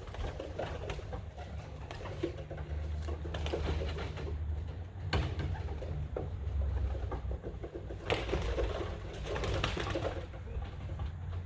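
Racing pigeons cooing low and steadily, with a couple of sharp taps or rustles about five and eight seconds in.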